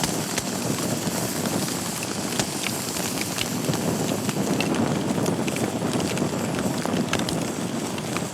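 Wood fire burning in a fireplace: a steady low rush of flames with frequent, irregular sharp crackles and pops from the burning wood.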